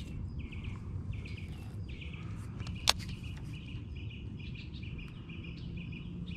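Birds chirping, short high calls repeating every half second or so over steady low background noise, with one sharp click about three seconds in.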